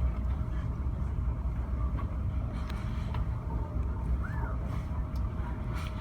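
Steady low drone of a car ferry's engines heard on board, with a faint constant hum over it.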